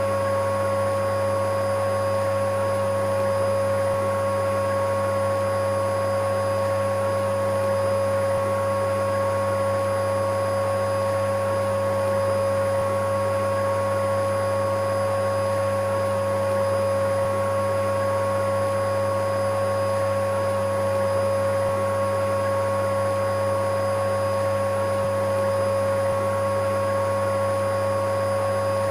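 Electric vacuum cleaner running steadily, a constant motor hum with a steady whine that does not change.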